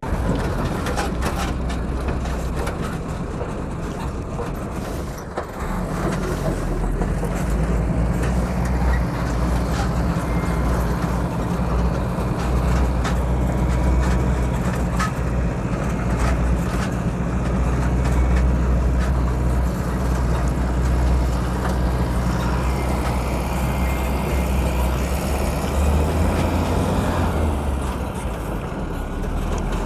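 Truck engine running steadily while driving on a rough dirt road, heard from on top of the truck, with scattered knocks and rattles over a noisy rush. The engine note shifts about five seconds in and again near the end.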